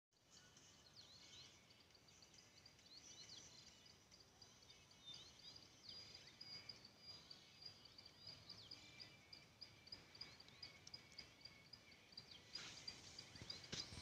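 Faint birdsong from several small birds: scattered high chirps and quick whistled slides, with one bird repeating a short high note over and over. A soft rushing noise rises near the end.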